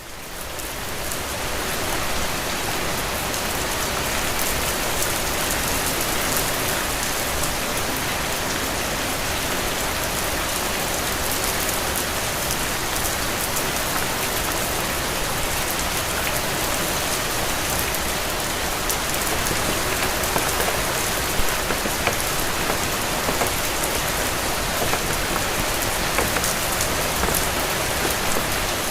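Steady rain falling, an even hiss with a few louder drop spatters in the second half. It fades in over the first couple of seconds.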